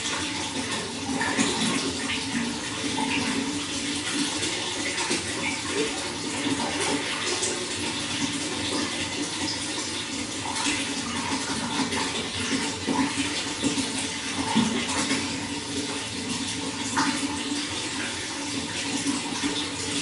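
Running water, a steady splashing and gurgling flow.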